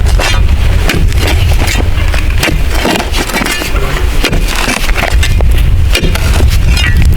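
Heavy wind buffeting the microphone, a loud steady rumble, with irregular sharp knocks and clicks on top.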